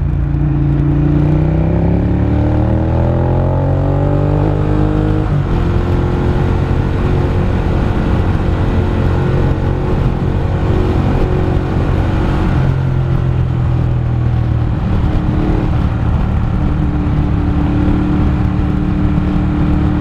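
Engine of the vehicle being driven, pulling harder with its pitch rising, then dropping suddenly about five seconds in as it shifts up a gear. After that it runs steadily at cruising speed over road and tyre noise.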